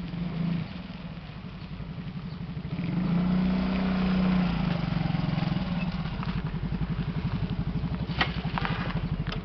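Motorcycle engine running, picking up briefly about three seconds in, then running with an even pulsing beat. Two sharp clicks come near the end.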